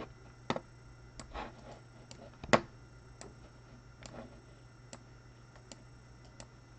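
Sparse sharp clicks and taps, about one every second, with a louder knock about two and a half seconds in, over a low steady electrical hum.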